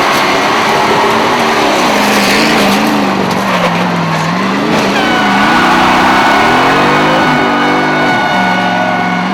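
Motorhome engines revving up and down during a demolition derby over loud noise, with a high tire squeal coming in about five seconds in.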